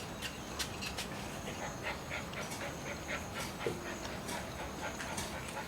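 Dogs making small sounds, with scattered faint clicks and taps.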